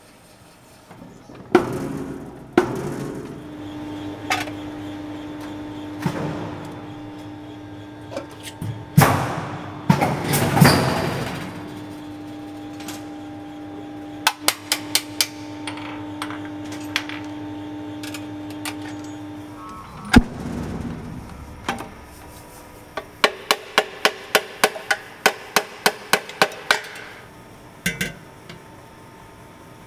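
Silversmiths' hammers striking silver: scattered single blows, then a quick run of light, even strikes, about three or four a second, near the end. A steady machine hum runs under the first two-thirds and then stops.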